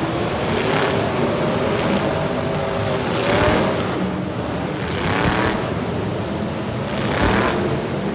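Demolition derby car engines running hard and revving, rising and falling in pitch, with a louder surge about every two seconds.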